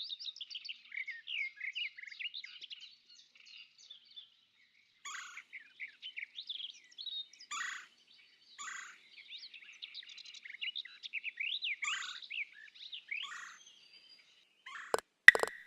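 Songbirds singing, a busy run of varied high chirps, trills and short whistles. Near the end come a couple of sharp loud knocks.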